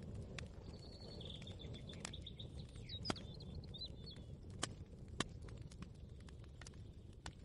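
Layered kitchen ambience: a steady low rumble, with a few sharp clicks or knocks spread through it and birds chirping in the first half.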